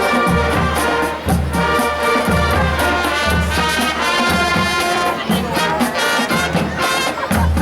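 High school marching band playing its field show, with the brass section carrying sustained chords over steady bass drum beats.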